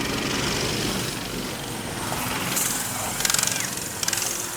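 Small minibike engines running steadily during a race.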